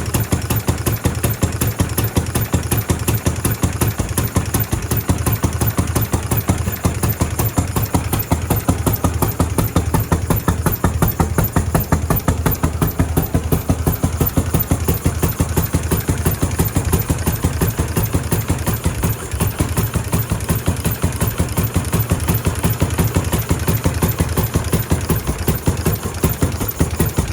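1911 McIntyre car's rebuilt engine running steadily, a rapid, even chugging of firing pulses that holds the same pace throughout.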